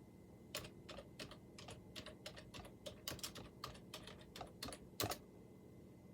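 Typing on a computer keyboard: a quick, irregular run of key clicks that starts about half a second in and stops after about five seconds.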